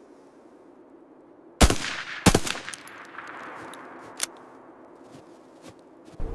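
Two loud sharp bangs about two thirds of a second apart, each ringing on afterwards, then a smaller sharp crack a couple of seconds later.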